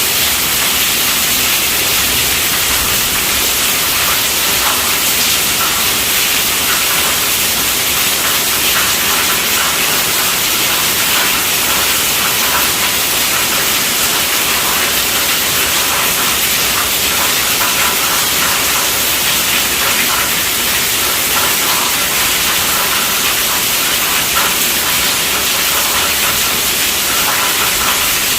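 Heavy rain falling steadily on a tent roof: a dense, even hiss of drops with a faint pattering on the fabric, unchanging throughout.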